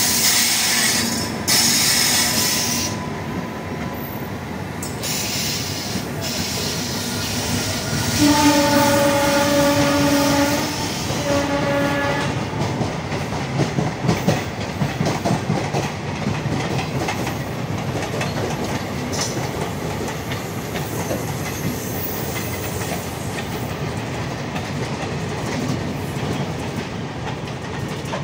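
Indian Railways express train passing close by. The locomotive horn sounds about eight seconds in, one long blast of about two and a half seconds and then a short one. After that the wheels clatter over the rail joints as the coaches run past.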